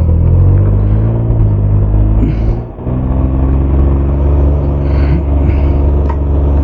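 Can-Am Ryker 900 three-wheeler's Rotax three-cylinder engine running steadily, with a short drop about two and a half seconds in.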